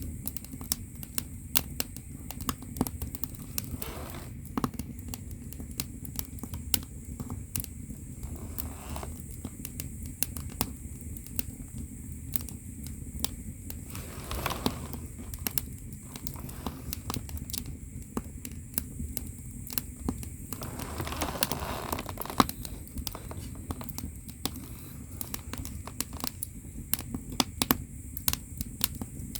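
Firewood crackling and popping in an agungi, the wood-fired firebox under a Korean ondol floor. Frequent sharp pops sound over a steady low rumble of the fire, with a few brief hissing swells.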